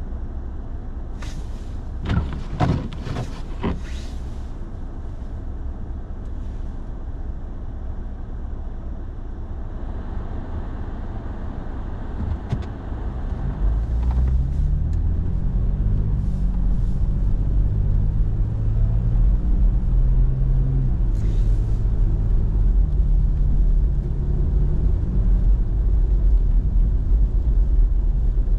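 Truck engine and road noise heard inside the cab while driving on a snow-covered road. There are a few brief knocks around two to four seconds in. About halfway through the engine gets louder and its pitch rises and falls as the truck pulls away and accelerates.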